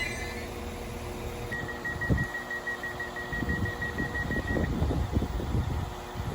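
Rapid electronic warning beeping for about three seconds, starting about a second and a half in, over a low rumble with gusts of wind on the microphone.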